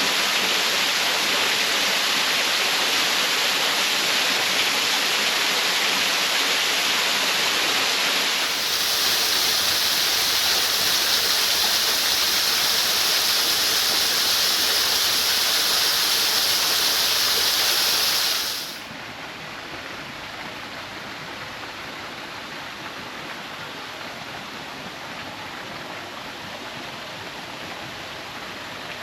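Waterfall rushing after rain, a steady, even roar of falling water. It gets louder and brighter about a third of the way through, then drops abruptly to a softer rush about two-thirds of the way through.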